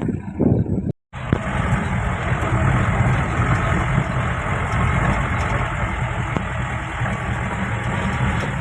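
Mahindra Bolero SUV running, a steady engine and driving rumble. It breaks off briefly about a second in.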